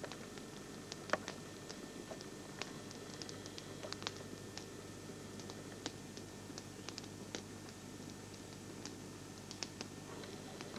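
Campfire crackling: a steady low hiss with sharp, irregular pops and snaps from the burning wood.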